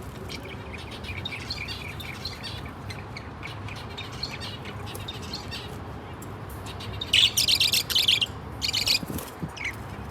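Budgerigars chirping and chattering softly, with a louder burst of rapid chirps about seven seconds in and a few more sharp chirps just after.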